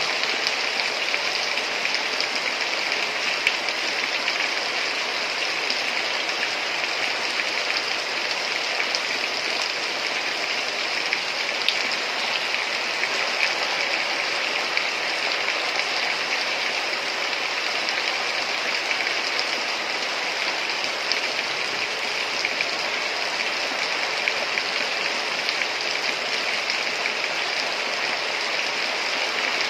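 Heavy rain falling steadily, an even hiss of many drops with faint scattered patters.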